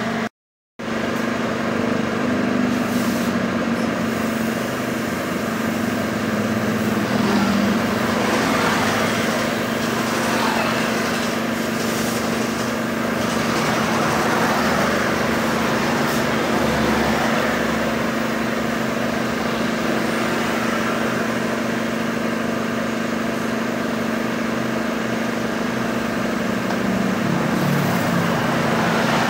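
Steady motor hum with a hiss over it, running without a break, briefly cut off just after the start. It is most likely the air compressor and spray gun used to spray the thinned black paint.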